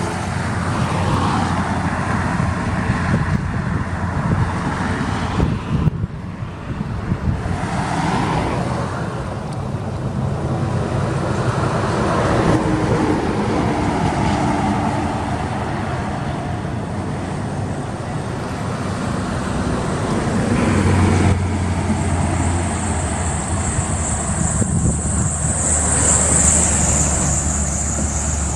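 Truck engines and road traffic running continuously, the engine pitch shifting several times. A steadier low engine drone with a high hiss sets in about three-quarters of the way through.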